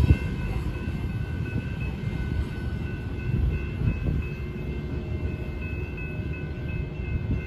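Low rumble of a freight train's covered hopper cars rolling away on jointed track, holding fairly even as the train recedes.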